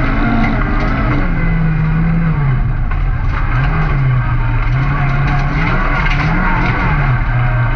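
Opel Astra autocross car's engine heard from inside the stripped cabin, revving up and dropping back several times as the driver works the throttle and gears on a dirt track.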